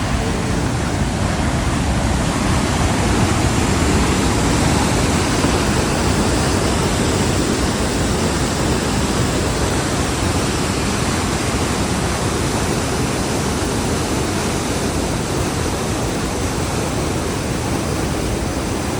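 Loud, steady rush of a river waterfall and its whitewater rapids.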